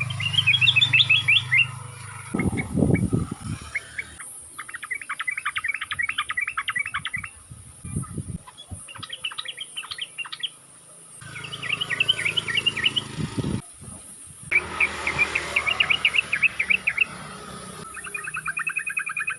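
Sooty-headed bulbul (trucukan) singing in repeated bursts of fast, chattering notes, each burst a second or two long with short breaks between. A steady high hiss runs underneath, and a few low thumps come about three seconds in and again near the middle.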